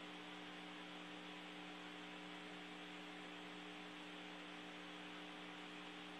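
Steady low electrical hum with a faint even hiss on an open air-to-ground radio audio line carrying no speech.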